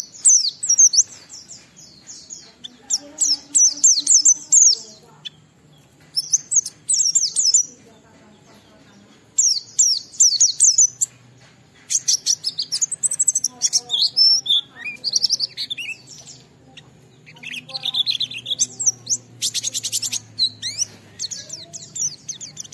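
A white-eye (pleci) singing: bouts of rapid, high twittering chirps, phrase after phrase, with short pauses between them.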